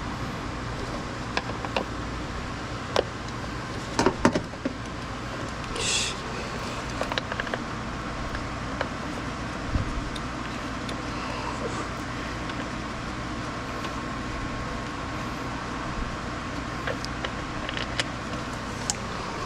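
Scattered clicks and knocks of hand tools working on a car engine over a steady low hum, with a cluster of knocks about four seconds in and a short hiss about six seconds in.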